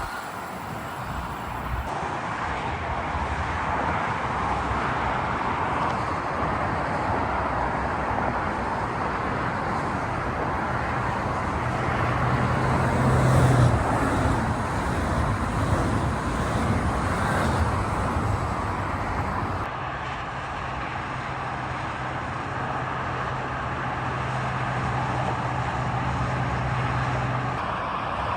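Electric trains passing on a main line: a steady rumble of wheels on rails from an SBB RABe 511 electric multiple unit. From about twenty seconds in, an SBB Cargo Siemens Vectron freight locomotive passes, and a low steady hum runs under the rail noise.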